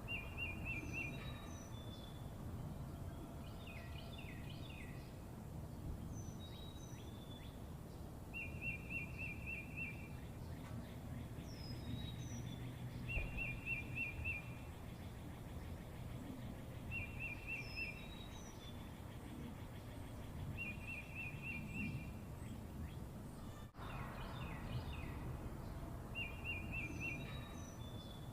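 Small songbirds singing: a short, fast trill repeated every few seconds, with scattered higher chirps, over a steady low background rumble.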